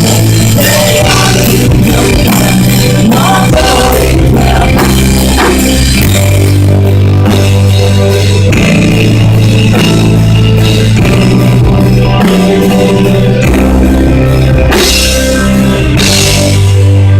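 Full band playing a worship song: a drum kit keeping a steady beat under sustained bass and keyboard chords that change every couple of seconds.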